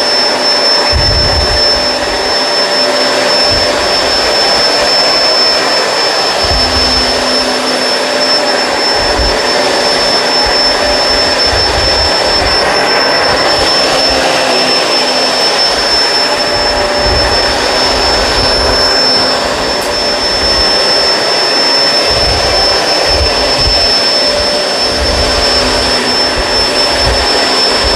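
Kenmore Crossover Ultra upright vacuum running steadily with a high whine, its brush roll working a rug. Irregular low thumps come through as it is pushed back and forth.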